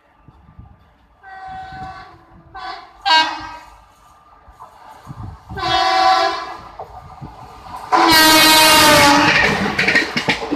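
Indian Railways locomotive horn sounding four blasts, the last the longest and loudest. Near the end the rushing clatter of the train passing follows.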